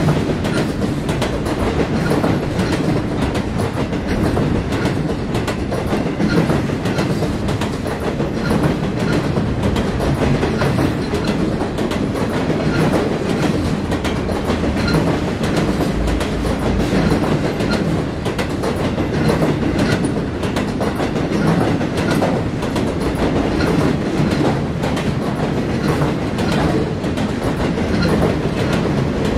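Circus train's loaded flatcars rolling past: a steady rumble of steel wheels on the rails with frequent, irregular clacks over the rail joints.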